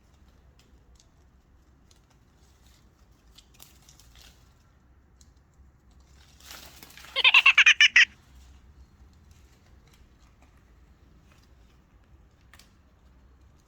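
Pet parakeet making one short, loud burst of rapid pulses a little past the middle, amid a few faint ticks.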